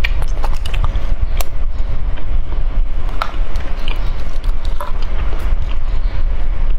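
Close-miked chewing and crunching of candy: scattered crisp crunches and clicks over a steady low rumble.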